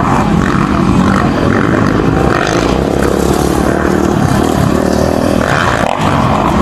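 Motocross motorcycle engines running loud and steady during a race.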